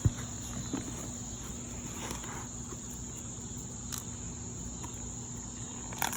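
Crickets chirping in a steady high-pitched trill, with a few light clicks at the start, about four seconds in and again near the end.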